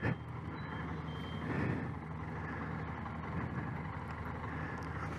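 Motorcycle engine running steadily while riding: a low, even drone with a hiss of wind and road noise.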